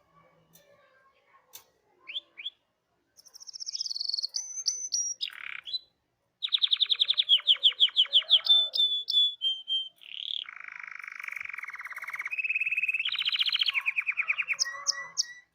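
Canary singing: after a quiet opening with a few faint clicks, the song starts about two seconds in and runs as a chain of high chirps, fast trills of rapidly repeated notes and long rolling buzzy phrases.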